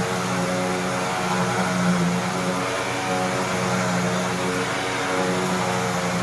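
Hoover Tempo bagged upright vacuum running steadily, its motor holding an even pitch over a steady rush of air while it vacuums up the test mess.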